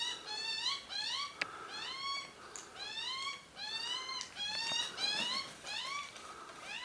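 A bird calling over and over in short, squeaky, rising notes, about two or three a second without a break. A single sharp click comes about a second and a half in.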